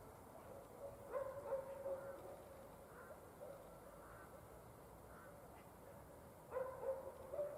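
Dog barking in the distance: two bouts of several barks, about a second in and again near the end.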